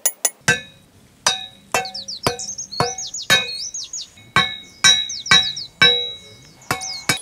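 Wooden stakes being hammered into sand with a metal tool: about a dozen sharp strikes, roughly two a second, each with a short metallic ring. High rising chirps sound between strikes around the middle.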